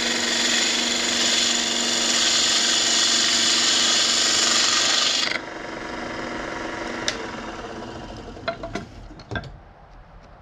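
A power tool abrading a piece of fatwood, smoothing a glued repair flush, with a steady motor hum under the rasping. The rasping stops abruptly about five seconds in, the motor hum fades away over the next few seconds, and a few light clicks and taps follow near the end.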